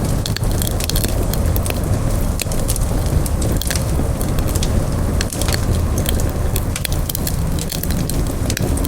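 Wood campfire burning, a steady low rumble of flames with frequent irregular sharp crackles and pops from the burning wood.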